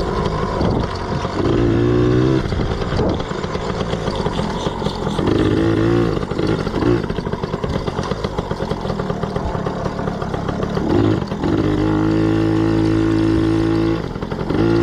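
A Yamaha PW80 dirt bike's small two-stroke single-cylinder engine running. It revs up and eases off several times, then holds high for a couple of seconds near the end.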